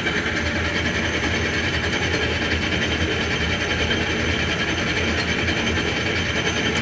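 Logan Powermatic 6561 lathe running in back gear at the top of its low speed range, with the power cross feed engaged: a steady mechanical running noise with a low hum and a fine, rapid clatter.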